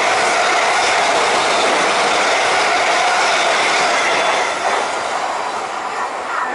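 Siemens Desiro electric multiple unit passing through a station non-stop at speed: a loud, steady rush of wheels on rail that tapers off about four and a half seconds in as the last carriage goes by.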